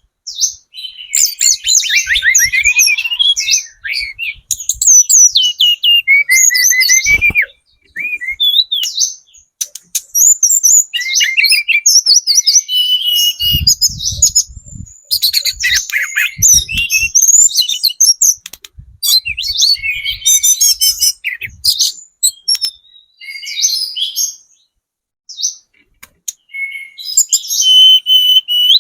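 Hill blue flycatcher (tledekan gunung), a juvenile in spotted plumage, singing loudly in rapid, varied phrases of high trills and gliding notes with brief pauses. A few low knocks come about halfway through.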